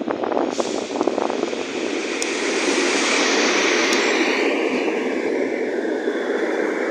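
A train passing: a steady rushing rumble of wheels on rail, with a few sharp clacks in the first second, swelling a few seconds in and then slowly easing.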